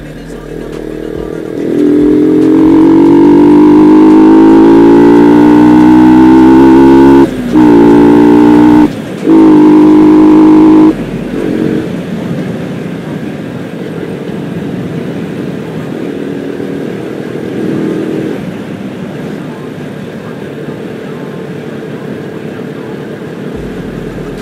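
Yamaha R15 V2's single-cylinder engine accelerating hard, its pitch climbing steadily. The sound cuts out briefly twice, about 7 and 9 seconds in, for upshifts. About 11 seconds in the throttle closes, and a quieter steady engine and wind noise follows.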